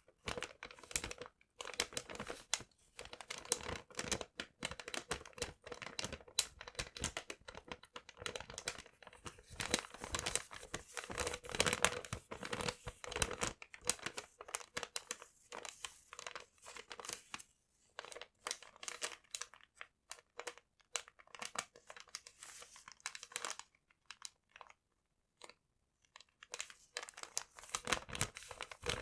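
Paper being crumpled, crinkled and torn close to the microphone, in quick irregular crackles with short pauses and a longer pause a few seconds before the end.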